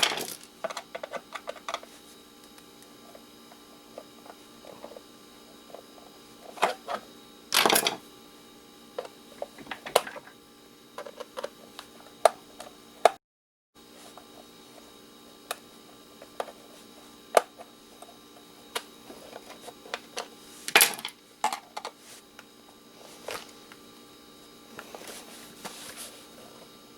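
Scattered light metal clicks and short scrapes of a knife tip being used as a screwdriver on triangle-head screws in a stainless steel kettle. There is a louder scrape about eight seconds in and another near twenty-one seconds.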